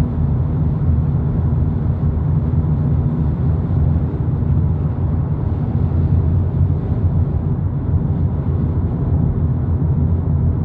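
A 2022 Volkswagen Polo GTI cruising at freeway speed: a steady, even low rumble of engine and tyre-on-road noise.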